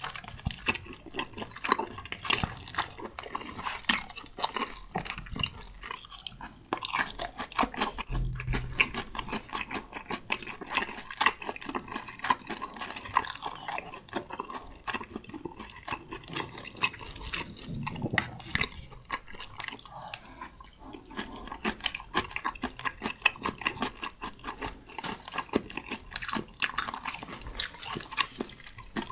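Close-miked chewing: wet mouth sounds full of small clicks as a person eats a mouthful of food.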